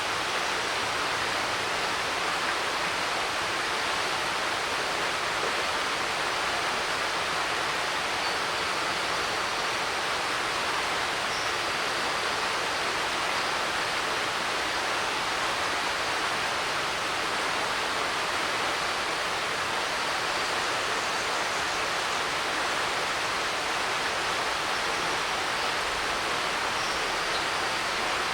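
Mountain creek rushing over rocks in a steady, even hiss like the static of an old TV set. A few faint, short bird chirps come through it.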